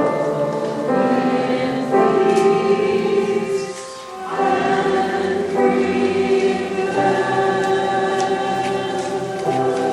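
A choir singing a slow hymn-like piece in sustained chords, with a brief breath pause about four seconds in.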